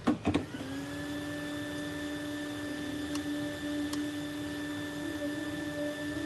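A couple of clicks, then a small electric blower motor starts up, spinning up within about half a second and settling into a steady whir with a thin high whine.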